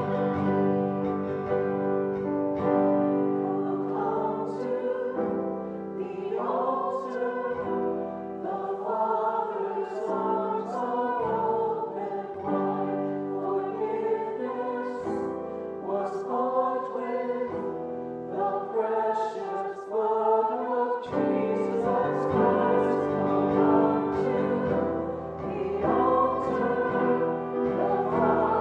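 Music: a choir singing sustained chords.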